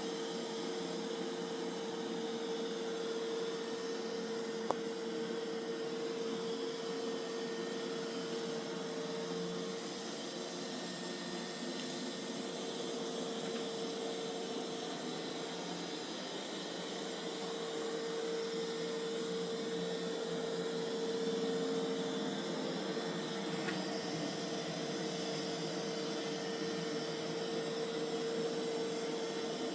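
Mova Z60 robot vacuum running on carpet: a steady whir from its suction motor with a constant hum, and a single click about five seconds in.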